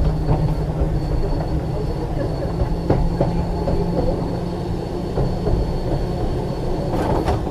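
Double-truck electric tram, ex-Liverpool Corporation 869, running on the rails under power, with steady traction-motor and gear whine over the rumble and rattle of the wheels and body. A few sharp clicks sound, and the high whine stops near the end.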